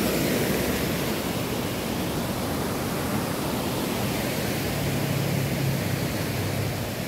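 Steady rushing noise, even and unbroken, with a faint low hum joining about five seconds in.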